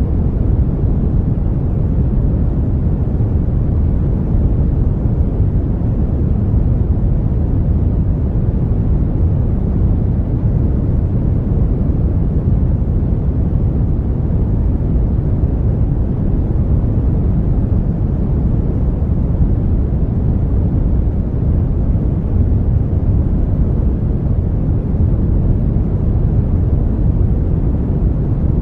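Steady brown noise: a smooth, unbroken, deep rushing hiss weighted heavily toward the low end, with no changes or events.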